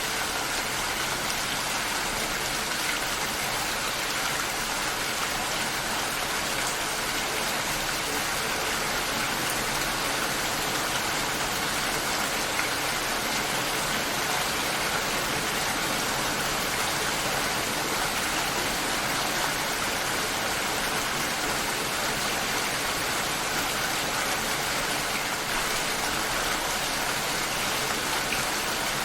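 Steady rain shower, a dense hiss of falling rain with drops pattering on surfaces, unchanging in level.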